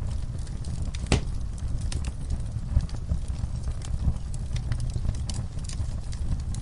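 Wood fire burning: a steady low rumble of flames with scattered crackles and pops, one sharper pop about a second in.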